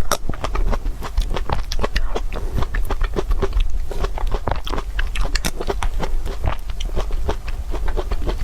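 Close-up eating sounds: someone biting and chewing crunchy food, a dense, continuous run of crisp crunches and clicks.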